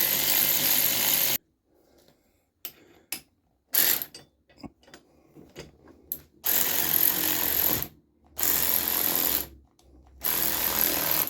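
Cordless power ratchet driving coil-spring compressors through a socket adapter, run in four or five bursts of about one to one and a half seconds with short pauses and small clicks between.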